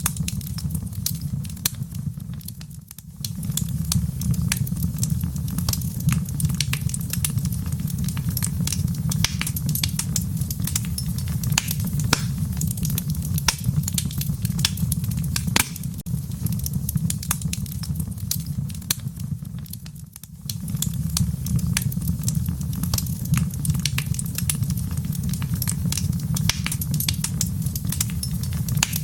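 Fire crackling in a fireplace: a dense run of sharp pops and snaps over a steady low rumble, dipping briefly twice.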